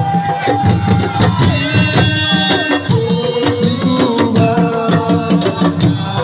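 Live assiko band music: fast, dense hand drumming with a sustained melody line held over it in long notes.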